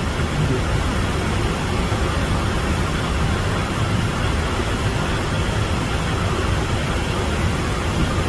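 Steady rushing noise of an airliner in cruise flight, heard from the flight deck: airflow over the cockpit and the distant hum of the jet engines, unchanging throughout.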